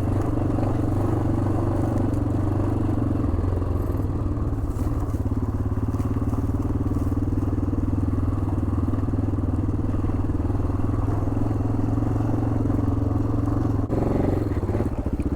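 1987 Yamaha XT600Z Ténéré's single-cylinder four-stroke engine running at a steady, even speed while the motorcycle is ridden.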